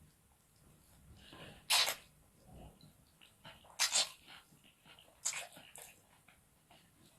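Close-miked eating sounds: a person chewing and slurping fried rice stick noodles. There are small wet clicks throughout and three louder bursts, about two, four and five seconds in.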